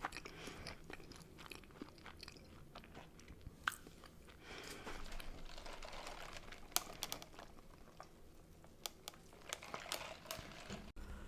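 A person chewing and crunching McDonald's food close to the microphone, with sharp crisp crackles scattered through and a busier run of crunching about halfway through.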